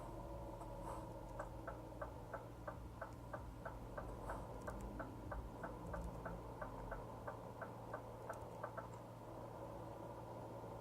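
Truck turn-signal indicator ticking evenly, about three clicks a second, starting about a second in and stopping near the end, inside the cab of a Scania R450 over the steady low drone of the engine.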